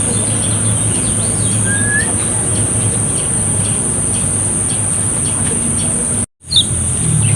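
Kecial kuning (lemon-bellied white-eye) calling in short, high chirps over a steady high-pitched hiss and a low hum. The sound cuts out completely for a moment about six seconds in.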